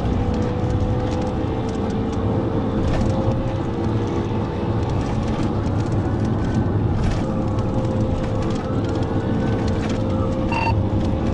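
Police patrol car running at high speed, heard from inside the cabin: steady engine and road drone. A faint siren wail rises and falls in the background, and a short beep sounds near the end.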